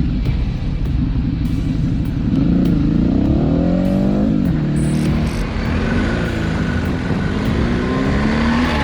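A vehicle engine accelerating: its pitch climbs, drops suddenly as if through a gear change, then climbs again near the end, over a steady low drone.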